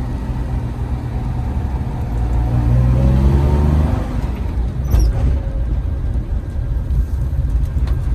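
Maruti Suzuki Omni van running with a heavy low engine rumble. Its pitch rises around the middle as it revs up, and there is a single sharp knock about five seconds in.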